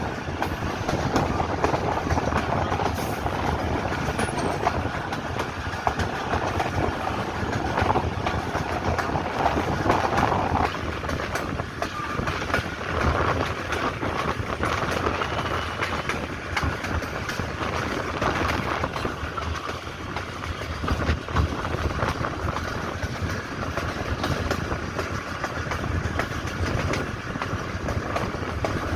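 Passenger train running steadily along the track, its wheels clattering over the rail joints with a dense run of clicks over a continuous rumble, heard from on board.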